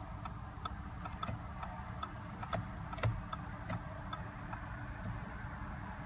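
Turn-signal indicator of a 2015 Audi SQ5 ticking steadily in the cabin, about three clicks a second, over a low steady hum. Two louder clicks come about halfway through.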